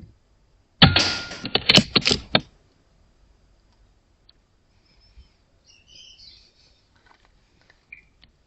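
.22 air rifle shot about a second in: a sharp crack followed by a rapid run of knocks and rattles lasting about a second and a half. Faint high chirps follow around six seconds in.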